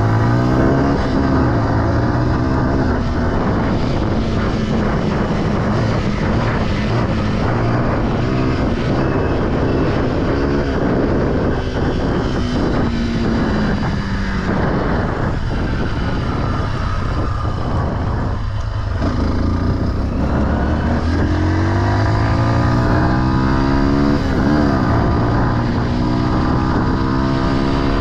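Off-road vehicle engine running while being ridden, its pitch rising and falling again and again as the throttle is opened and closed.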